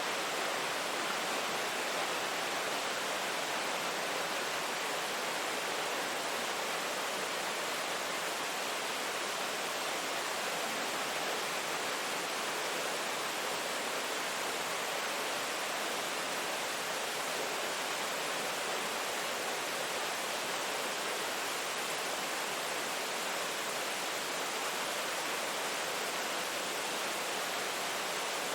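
Steady heavy rain: an even, unbroken hiss with no single drops or thunder standing out.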